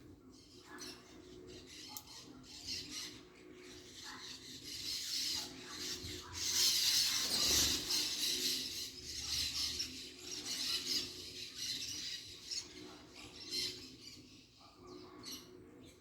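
Wild birds calling, with a noisy rustling hiss that is loudest about seven seconds in, over a faint steady hum.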